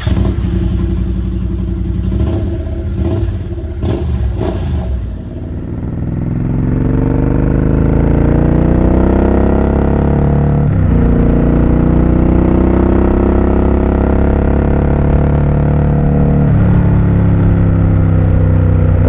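Triumph Speed Twin 1200's parallel-twin engine riding off and accelerating through the gears. It runs unevenly and clattery at low speed for the first few seconds, then its pitch rises steadily in each gear, with upshifts about 11 and 17 seconds in.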